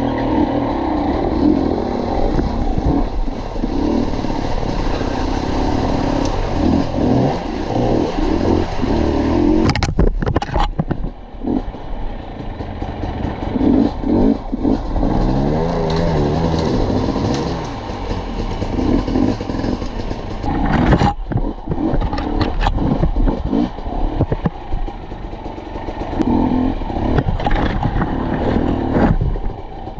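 Enduro motorcycle engine running and revving, its pitch rising and falling as it labours. Clusters of clattering knocks come about ten seconds in and again around twenty-one seconds.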